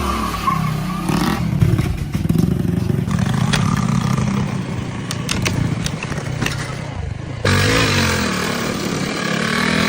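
Motorcycle engine running, its pitch rising and falling with the throttle. A few sharp clicks come in the middle, and the sound changes abruptly about seven and a half seconds in.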